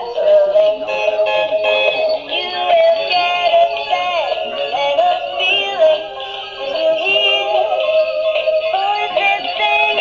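A singing Christmas toy playing a Christmas song: a synthetic-sounding voice singing a melody over a musical backing.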